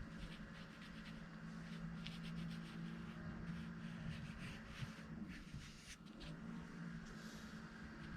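Paintbrush stroking and dabbing on paper in short, irregular scratchy strokes, over a steady low hum.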